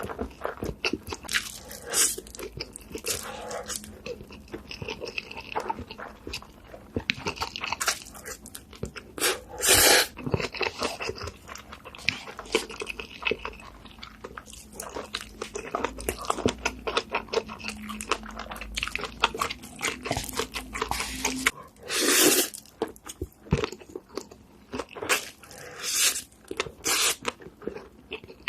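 Close-miked eating sounds: chewing with many irregular sharp crunches, and a couple of longer, louder crunching bursts about ten seconds in and again past twenty seconds.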